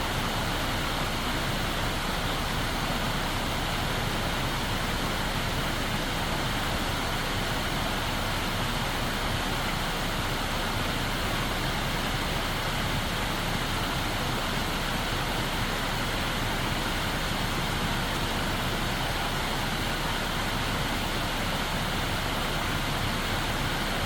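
Steady rushing water, an even unbroken noise with no change throughout.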